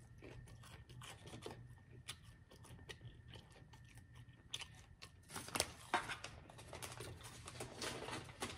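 Close-up chewing and crunching of crispy fried food: scattered crisp crackles and clicks, coming thicker in the second half.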